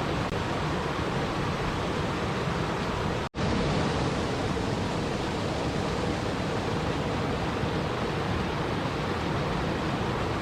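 Continuous rushing water ambience, an even noise with no distinct events. It breaks off for an instant a little over three seconds in, where the looped recording is spliced.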